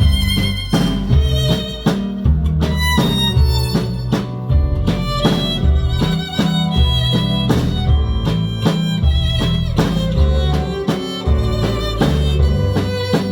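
A live pop band plays an instrumental passage of a Christmas song. A sustained lead melody with vibrato rides over bass, guitar and a steady drum beat.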